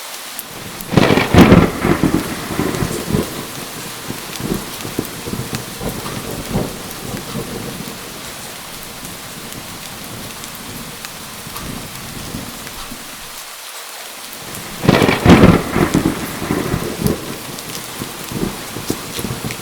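Steady rain falling, with two loud cracking thunderclaps, one about a second in and another about fifteen seconds in, each rumbling away over a few seconds.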